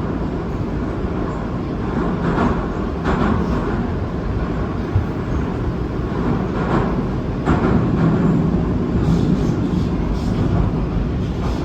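Saint Petersburg metro train running through the tunnel: a loud, steady rumble with pairs of sharp wheel clacks over rail joints, twice.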